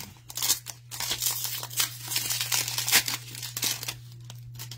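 Plastic trading-card pack wrapper and cards crinkling and rustling as they are handled, in irregular crackles that ease off near the end. A steady low electrical hum runs underneath.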